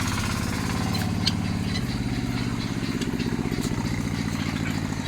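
An engine idling steadily, a low, rapidly pulsing drone, with a few short high clicks over it.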